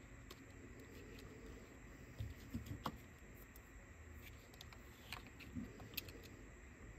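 Faint scattered clicks and light taps of a battery being fitted into a Sony Walkman WM-EX999 cassette player, in two small clusters, the first about two seconds in and the second about five seconds in.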